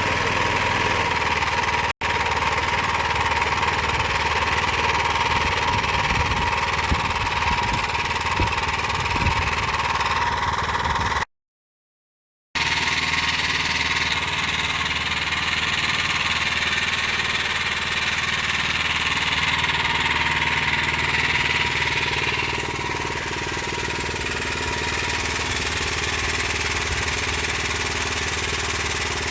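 Power Fist 79cc single-cylinder four-stroke engine on a homemade mini bike, running steadily as the bike is ridden slowly. The sound cuts out twice, for an instant about 2 seconds in and for about a second around 11 seconds in, and it drops a little in level about three-quarters of the way through.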